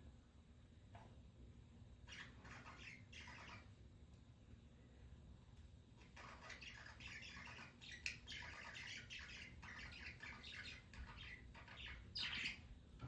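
Pet budgerigars chirping and chattering quietly in short bursts, busiest from about six seconds in, with a louder burst of chirps near the end.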